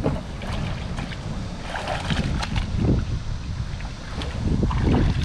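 Wind rumbling on the microphone, with scattered short knocks and rustles.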